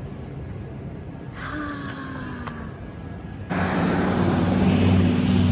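An engine running with a steady low hum. About three and a half seconds in, it cuts abruptly to a much louder, fuller engine sound.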